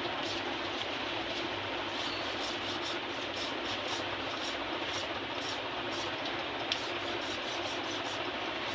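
Continuous rubbing and scraping from hand-cleaning a harmonium key, worked square and even, with one sharp click near the end.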